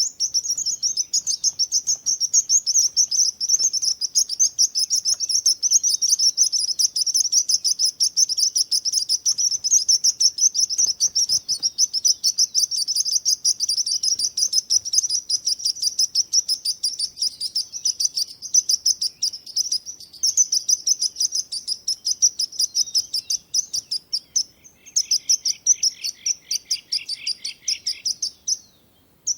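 Songbirds chirping rapidly and without a break, high-pitched. A second, lower chirping joins in for a few seconds near the end.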